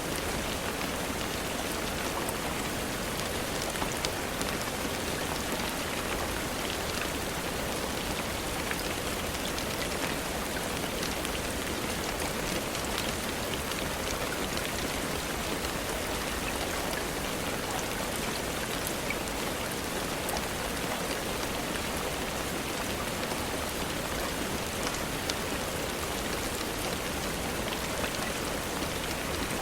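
Steady rain falling, with a constant hiss of rainfall and many small ticks of individual drops.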